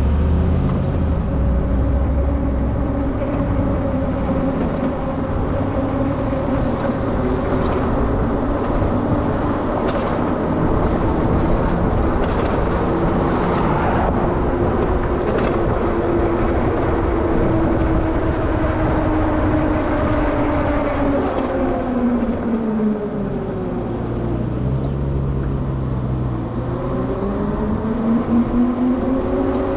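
Denzel Samurai electric dirt bike riding along, its motor whining over wind and road rush; about two-thirds through the whine falls as it slows, then rises again as it speeds back up.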